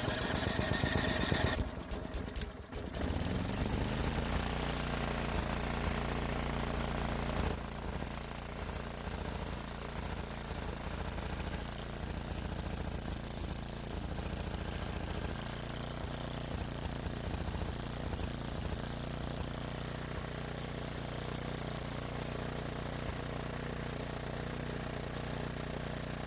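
Gas snowblower engine running steadily after being started on its electric starter. A loud, rough first second or so, a brief dip, then an even running note that settles slightly about seven seconds in.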